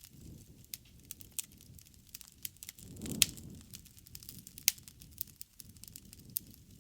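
Bonfire crackling, with irregular sharp pops and snaps over a low rumble of the flames. The loudest pop comes about halfway through, on a brief swell of the rumble, and another strong snap follows a second and a half later.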